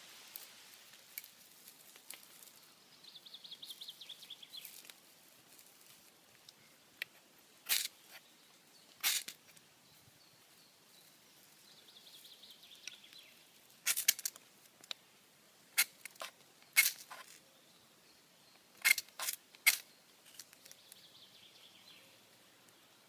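A ferro rod firesteel struck with a knife's spine: about eight short, sharp rasping strikes, two near the start of the second quarter and a cluster of quick ones later, between stretches of finer rapid scraping.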